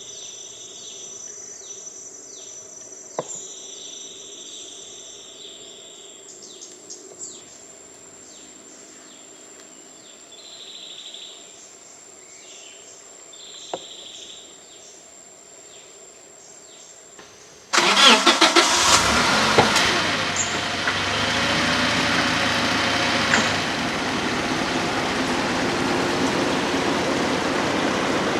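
Insects chirping in repeated bursts over a thin steady high whine. After about eighteen seconds this cuts off abruptly and a loud, steady vehicle engine and road noise takes over.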